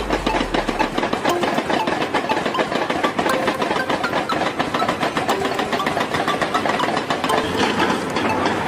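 Large excavator's diesel engine running steadily, with a rapid, even clatter.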